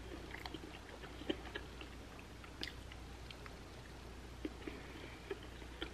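A person chewing soft food close to the microphone, with faint, scattered wet mouth clicks.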